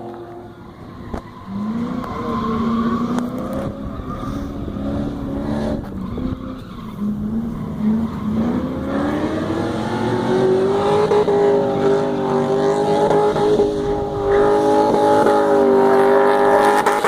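LSX V8 engine of a Nissan D21 drift truck, running low at first, then revving up about eight seconds in and held at high revs through a drift, with tyres skidding.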